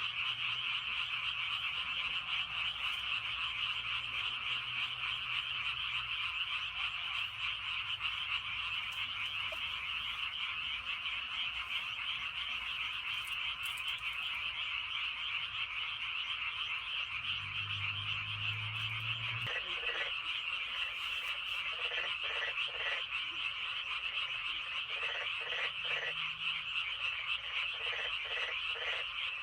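A dense chorus of frogs calling from a flooded rice paddy, a steady massed trilling without a break. Deep, low drawn-out calls, typical of bullfrogs, sound through the first few seconds and again a little past the middle, and in the last third short croaks come in quick groups of three or four.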